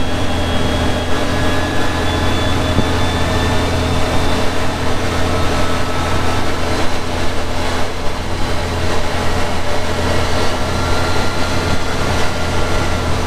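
2023 CFMoto UForce 1000 side-by-side's V-twin engine and CVT clutch drivetrain running steadily under way, heard from the cab. Faint whining tones drift slowly in pitch.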